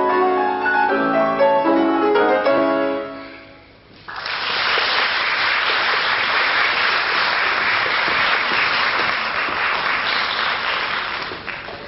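Piano playing the closing chords of a classical waltz, dying away about three seconds in; then an audience breaks into steady applause, which tapers off near the end.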